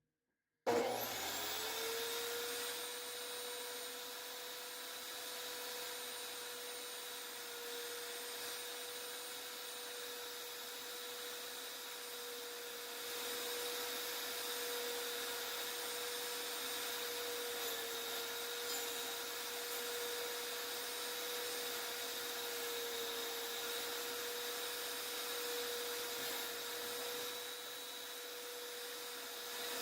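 Budget table saw starting up about a second in, its motor whine rising in pitch and settling into a steady high hum that runs on, a little louder from about halfway.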